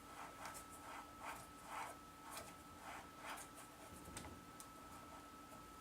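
Faint, even rubbing strokes about two a second as the freshly reassembled plain-bearing spindle of a Schaublin 70 lathe headstock is turned by hand. The owner judges it a little too tight, over a steady low electrical hum.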